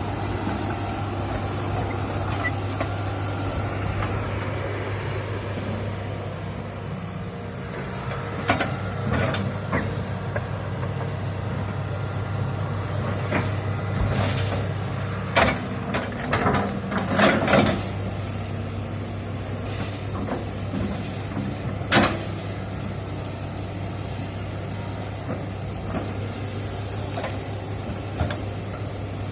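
Hitachi excavator's diesel engine running steadily under load, with scattered knocks and cracks, a cluster of them a little past the middle and one sharp crack about three-quarters through.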